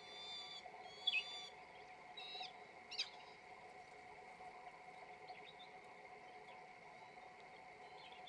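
Peregrine falcon calling: four short, whining calls in the first three seconds, then only a few faint chirps.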